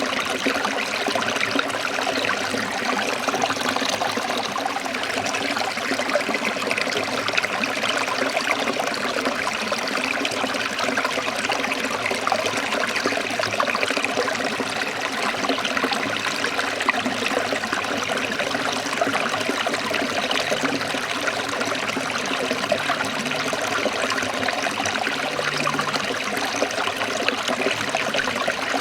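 Forest stream running: steady trickling and splashing water.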